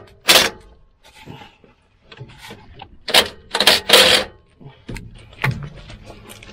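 Metal hand tools clinking and scraping against an exhaust clamp: a wrench being worked onto the clamp's nut in a cramped spot, with irregular sharp clinks, the loudest bunched about three to four seconds in.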